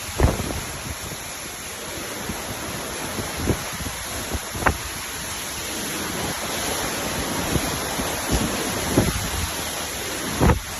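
Hurricane-force wind rushing steadily and buffeting the microphone, with several sharp thumps scattered through it, the loudest just after the start and near the end.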